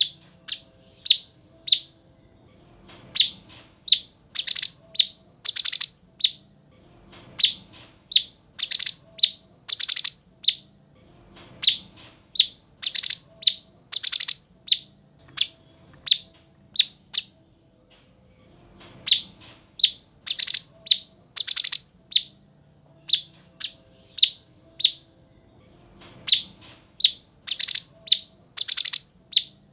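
Cucak cungkok bird calling loudly and repeatedly: short, sharp, high-pitched notes and piercing shot-like calls in bursts that recur every few seconds.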